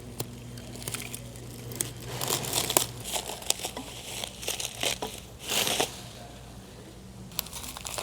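Packaging crinkling and tearing as it is pulled off an exhaust Y-pipe, in irregular rustling bursts that are busiest in the middle, with a louder rip a little over halfway through.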